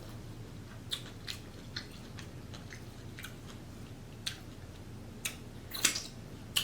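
Close-miked chewing and mouth sounds of a person eating seafood boil: wet smacks and sharp clicks about every half second to second, with the loudest cluster about six seconds in.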